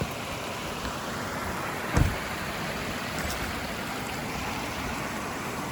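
Small creek waterfall splashing, a steady rush of water, with a single thump about two seconds in.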